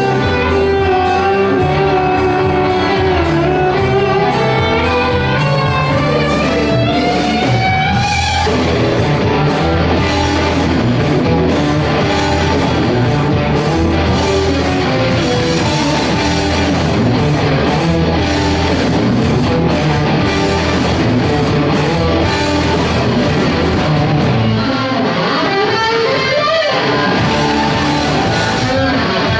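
Live rock band playing an instrumental passage, loud and steady, with an electric guitar lead that bends slowly upward over the first several seconds and swoops up and down again near the end.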